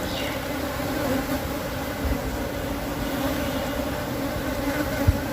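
A colony of Asian honey bees (Apis cerana) buzzing in a steady hum. A dull low bump sounds near the end.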